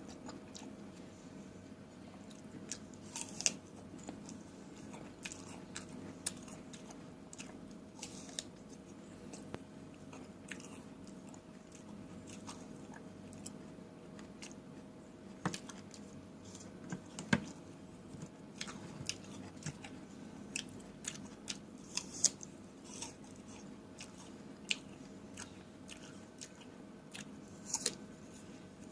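A person eating fresh fruit close to the microphone: crisp bites and wet chewing with scattered sharp crunches, over a faint steady hum.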